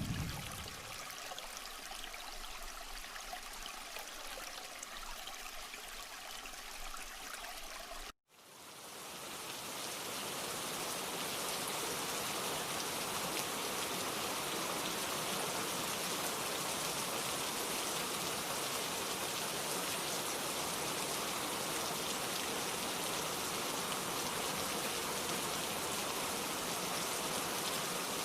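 Steady rain falling, an even hiss. About eight seconds in it cuts out for an instant, then a louder, fuller rain fades back in over a couple of seconds and holds steady.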